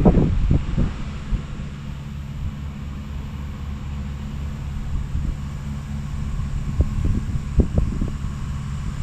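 Electric trolling motor humming steadily, with a few knocks about the boat near the start and again near the end.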